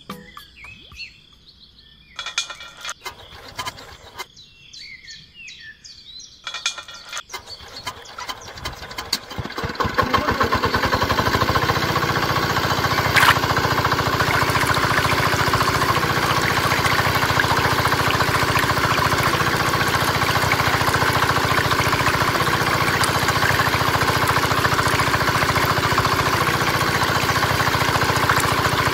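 Mini diesel engine starting: scattered knocks and clicks, then it catches about nine seconds in and runs steadily with a fast, even beat. Birds chirp before it catches.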